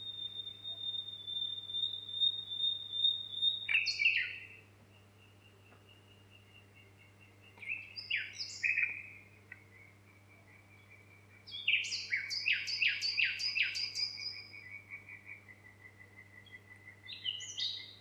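Birdsong, in separate phrases: a long steady whistle for about four seconds, then short falling notes, a quick run of six or seven falling notes about twelve seconds in that trails off into a trill, and one more call near the end. A faint low hum runs underneath.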